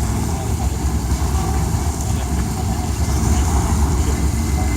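Steady low rumble of a boat's engine as the boat pulls away.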